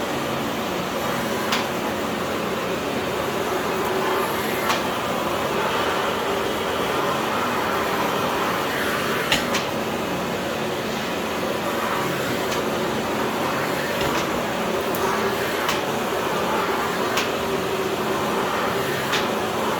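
Philips PowerPro FC9331/09 900 W bagless cyclone vacuum cleaner running steadily, with occasional sharp clicks and knocks as it is worked over the floor.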